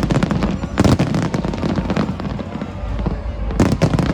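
Fireworks display: rapid crackling bursts and bangs over a continuous low rumble, with thick clusters of reports about a second in and again near the end.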